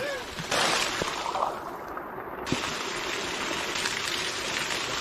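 Water running and trickling steadily, with a louder rush of water about half a second in.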